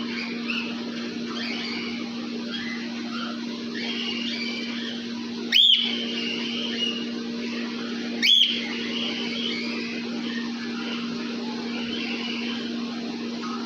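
Cockatiels chirping continually, with two loud, short whistled calls that sweep upward, nearly three seconds apart, over a steady low hum.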